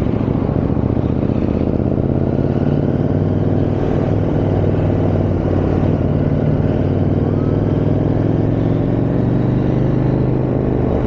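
KTM 890 Adventure R's parallel-twin engine running steadily on the move, under wind and road noise.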